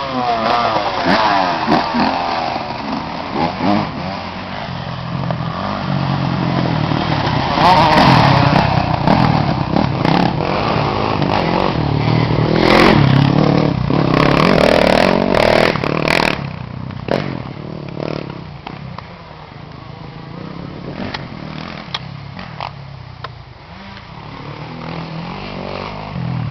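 Motocross dirt bike engines revving up and down as the bikes ride the track, with sharp clattering knocks around the middle; the engines grow quieter over the last third.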